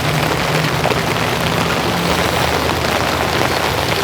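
Steady summer rain falling, an even loud patter, with a low hum underneath that fades out about halfway through.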